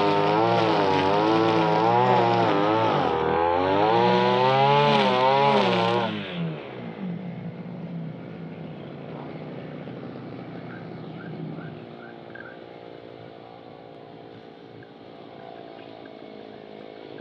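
Brush cutter's small engine running, its speed wavering up and down, then shutting off about six seconds in. Afterwards a much quieter low hum remains, with a few short faint chirps.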